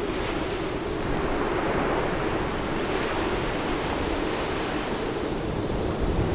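Steady rushing water, an even noise without breaks, swelling slightly about a second in.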